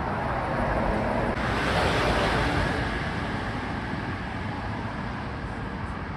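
Rushing noise of a passing vehicle that swells to a peak about two seconds in and then fades, over a steady low rumble.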